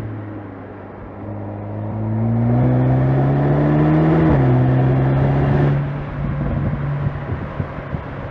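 2025 VW Golf GTI Clubsport's turbocharged 2.0-litre four-cylinder engine accelerating: its pitch rises for about two seconds, drops suddenly at an upshift about four seconds in, then pulls on loudly before falling off to a quieter run near six seconds.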